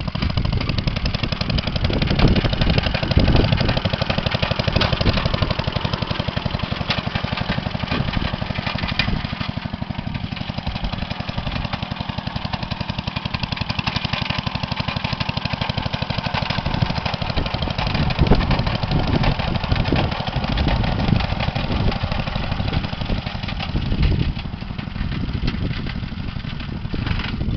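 Briggs & Stratton Model K single-cylinder engine on a 1937 Shaw D3T garden tractor running, a rapid, steady train of exhaust beats that grows louder and softer a few times.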